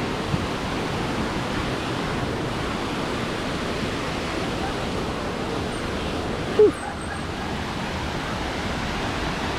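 Waterfall rushing steadily, with a brief, sharp, louder sound about two-thirds of the way in.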